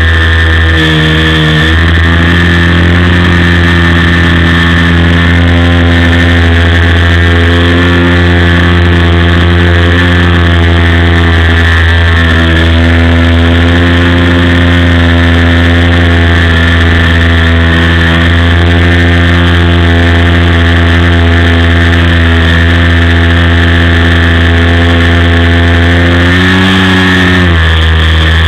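OS FS-56 four-stroke glow engine of an RC model plane running steadily in flight, heard loud and close from an onboard camera. Its pitch shifts slightly with the throttle, rising briefly and falling back near the end.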